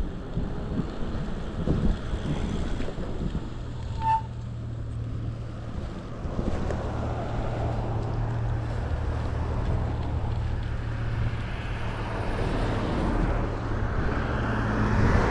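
Wind buffeting the microphone of a moving e-bike's camera, with road traffic noise and a low steady hum that builds towards the end. A brief high chirp sounds about four seconds in.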